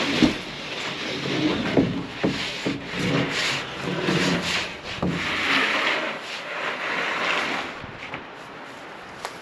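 Wooden fence posts scraping and sliding against one another as they are unloaded from a truck bed, with several sharp wood-on-wood knocks.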